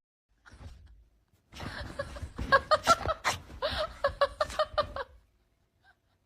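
High-pitched laughter in a quick run of bursts, starting about a second and a half in and lasting about three and a half seconds.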